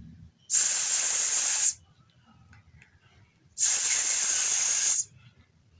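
A teacher's voice making the drawn-out "sss" sound of the letter S, twice, each hiss held for about a second, modelling the phonics sound for students to repeat.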